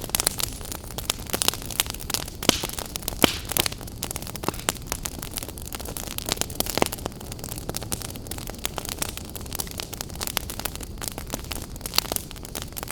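Open wood fire crackling, with irregular pops and snaps over a steady hiss and low rumble of burning.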